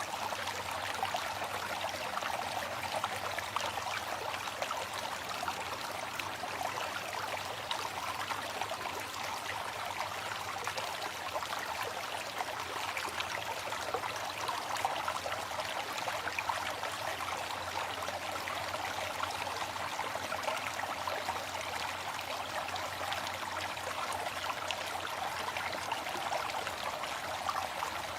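Waterfall: water falling and splashing in a steady, even rush with fine splashy flicker.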